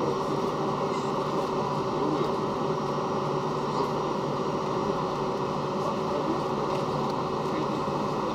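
Steady drone inside the passenger cabin of an Ilyushin Il-96-300 airliner with its engines running: an even, dense hum with a few steady tones running through it.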